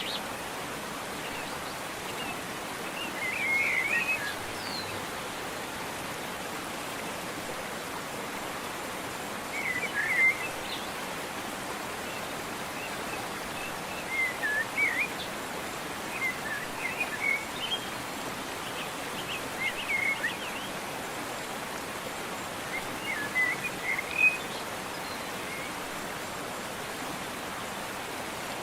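Steady rushing of a waterfall, with a songbird singing short chirping phrases every few seconds over it.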